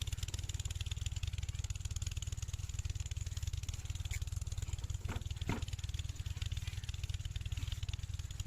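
Kirloskar 8 hp single-cylinder diesel pumpset engine running steadily at an even speed, its low, rapid exhaust pulses unbroken.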